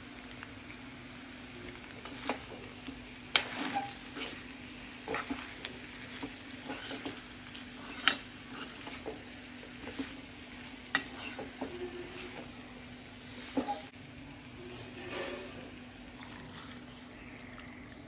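Prawns frying and sizzling in a kadai while a steel spoon stirs them, with irregular sharp clinks and scrapes of the spoon against the pan.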